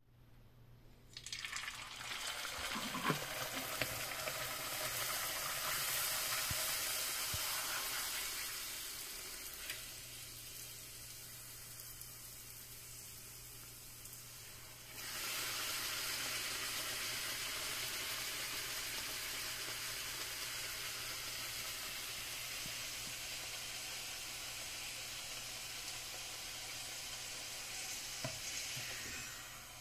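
Puri deep-frying in hot oil: sizzling starts about a second in as the dough goes into the oil and eases off after several seconds. It jumps back up about halfway through as the puri is turned over, then fades near the end.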